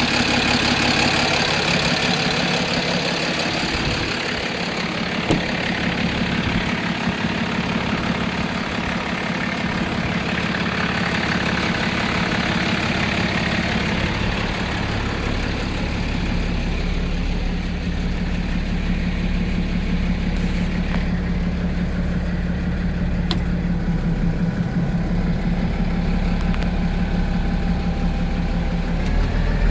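6.7-litre Cummins straight-six turbodiesel idling steadily in a Freightliner bucket truck.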